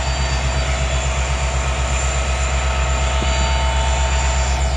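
Diesel locomotive engine running steadily at idle, a low, evenly pulsing rumble.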